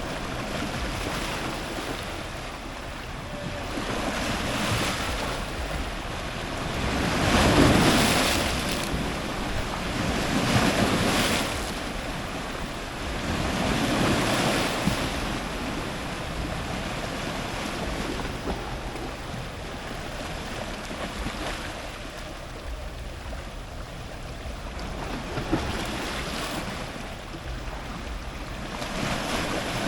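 Ocean surf breaking and washing in at the shoreline, a continuous rush of water that swells and falls as waves arrive. The loudest wave surges about eight seconds in, and smaller surges follow a few seconds apart.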